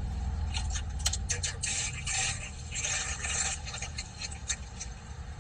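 Steady low rumble of a car interior, with irregular clicks and short rustling scrapes of things being handled, busiest in the first few seconds.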